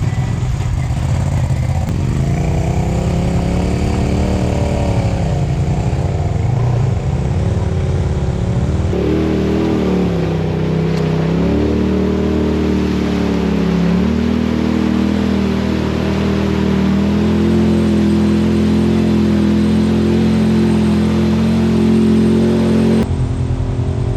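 Side-by-side UTV engine running hard on a trail, its pitch rising and falling with the throttle. The sound changes abruptly twice, about nine seconds in and near the end.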